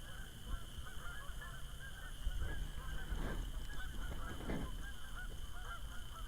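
A flock of geese honking, many short calls overlapping continuously, over a low steady rumble.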